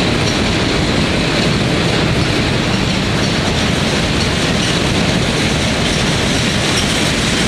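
Derailed freight cars of a Norfolk Southern train rolling past, their wheels off the rails and kicking up dust from the track: a loud, steady rumble and clatter of the passing train.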